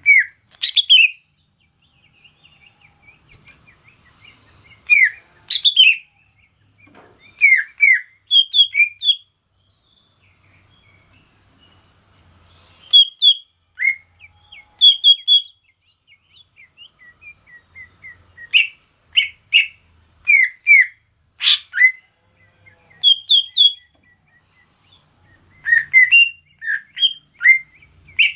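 Cucak ijo (green leafbird) singing in short bursts of quick whistled chirps, a cluster of notes every few seconds with pauses in between.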